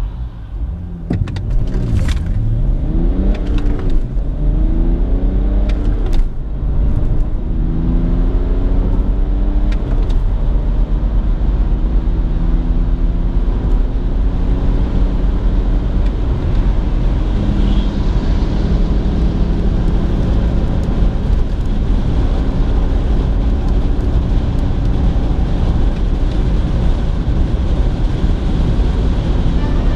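BMW 330xd's three-litre straight-six turbodiesel accelerating at full throttle from a standstill to about 200 km/h, heard from inside the cabin. The engine note climbs in pitch through each gear and drops back at each upshift, the shifts coming further apart as speed builds, with growing road and wind noise underneath.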